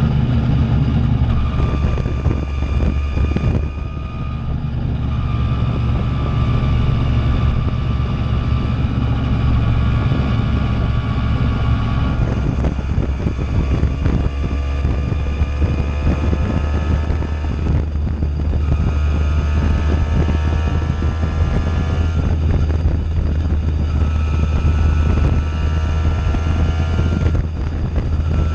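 Simson moped's two-stroke single-cylinder engine running through a JW aftermarket tuning exhaust under way, its pitch climbing repeatedly as it accelerates and dropping briefly at each of several gear changes.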